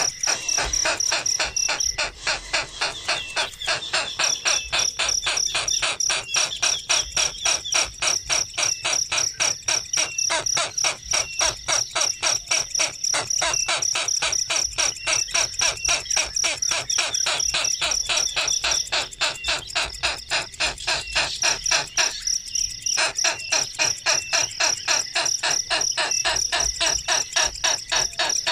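Insects, crickets or cicadas, calling: a steady high-pitched trill over a fast, even pulsing chirp at about four pulses a second.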